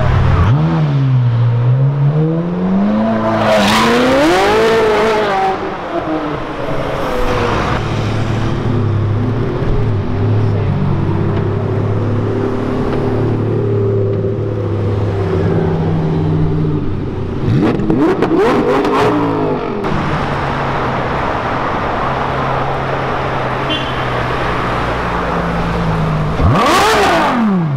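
Supercar V12 engines idling and being revved: short sharp rises and falls in pitch about a second to five seconds in, again around eighteen seconds, and near the end, over a steady idle in between.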